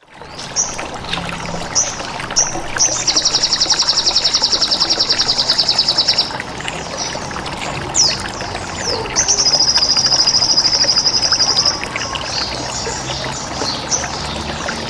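Recorded songbird calls for bird training: short high chirps and down-slurred notes, with two long, very fast trills of about a dozen pulses a second, each lasting two to three seconds. Running water sounds continuously underneath.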